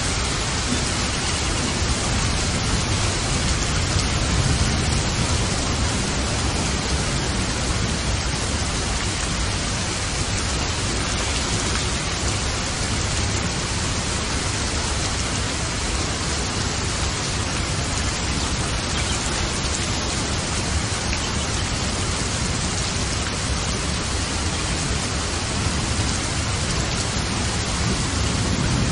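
Steady, even rain with a low rumble underneath.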